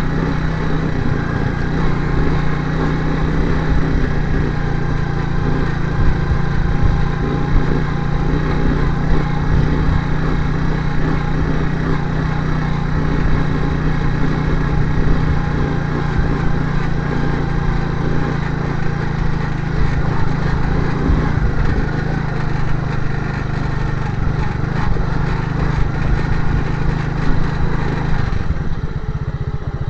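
Small motorcycle engine running at a steady speed, its note falling and settling lower just before the end.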